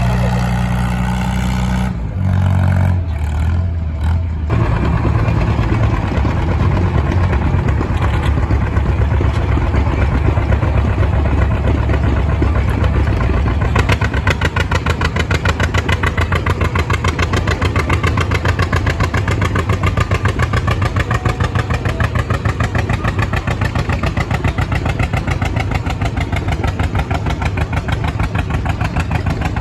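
Tractor engine running steadily and loudly at a tractor pull, with a brief unsteadiness about two to four seconds in and a rapid even firing pulse from about halfway on.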